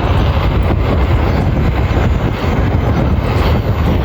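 Wind buffeting the microphone of a bike rider moving at speed, a steady loud rumble mixed with road noise.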